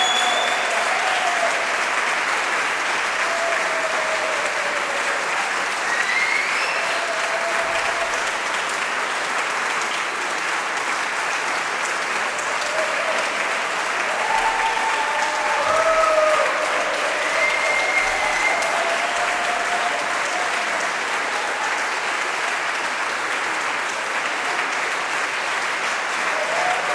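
Audience applauding steadily, with a few short calls and whistles rising above the clapping.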